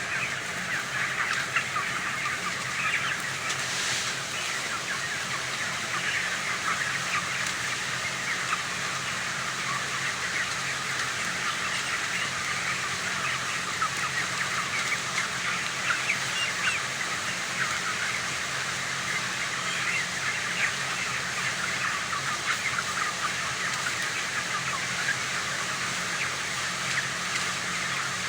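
A large flock of young chickens, about 30 days old, peeping and chirping together in a constant overlapping chatter. A steady low hum runs beneath it.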